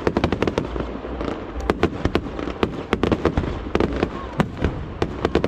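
Aerial fireworks going off: many sharp bangs and cracks in quick, irregular succession, over a steady low rumble.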